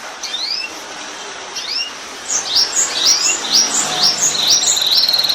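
Canary singing: a few high rising whistled notes, then a quicker run of repeated notes about three a second, breaking into a fast rapid trill near the end.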